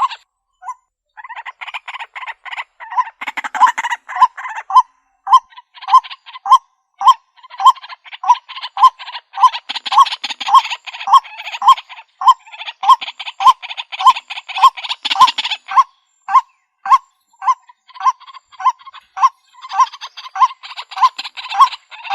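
White-breasted waterhen calling: a long, steady run of loud, short kwak notes, about one and a half a second, over a dense rattling chatter.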